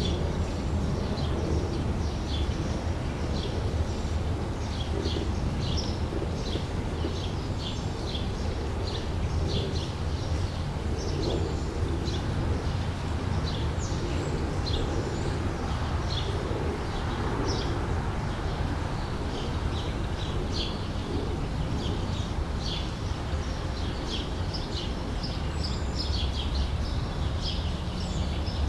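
Small birds chirping and singing in many short, high notes over a steady low rumble.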